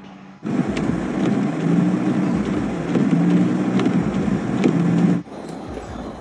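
A motor vehicle running, its pitch wavering up and down, with a few clicks; it cuts in about half a second in and cuts off abruptly about five seconds in.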